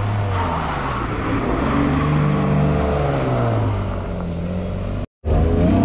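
Mk2 Ford Escort rally car engine revving, its pitch rising and falling with the throttle and dropping away about four seconds in. There is a brief gap near the end, after which the engine pitch climbs again.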